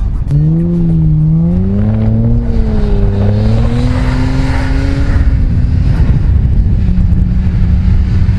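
Car engine held at high revs during a donut in the snow, its pitch wavering up and down and climbing over about five seconds. It then drops away to a steadier, lower note near the end.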